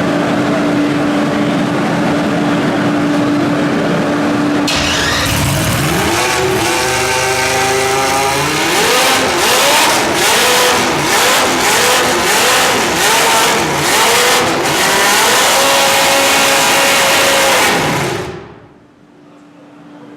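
Honda 3.5-litre V10 of a 1990 McLaren MP4/5 Formula 1 car being fired up: after a steady hum the engine catches about five seconds in, then is blipped hard about once a second, held at higher revs, and shut off near the end.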